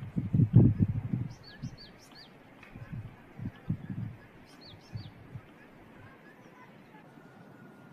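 Small birds chirping in short, quick upward-sweeping calls, in two brief clusters: about a second and a half in, and again around four seconds. Low thumps run underneath; they are loudest in the first second and a half and die away by about five and a half seconds.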